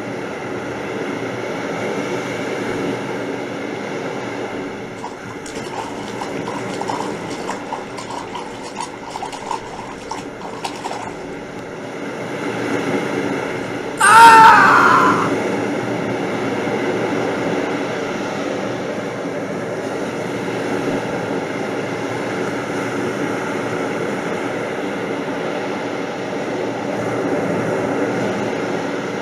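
Steady rush of flooding water. A run of small clicks and rattles comes between about 5 and 11 seconds in, and about halfway through there is one loud, brief pitched sound that bends in pitch.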